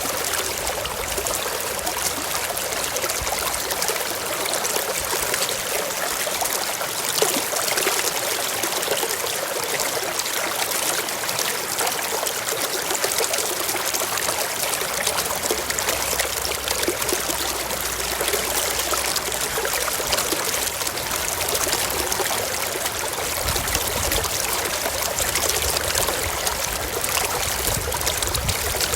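Mountain stream flowing over rocks: a steady rush and babble of running water, with one brief louder moment about seven seconds in.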